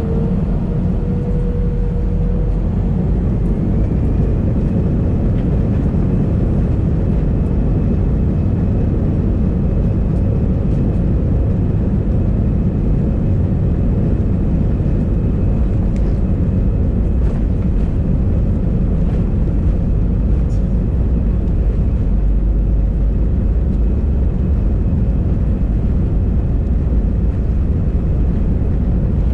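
Airbus A320 cabin noise at a window seat: a steady, loud roar of engines and airflow, heaviest in the low range. A faint engine tone rises slightly in the first couple of seconds, and a faint high whine joins about four seconds in.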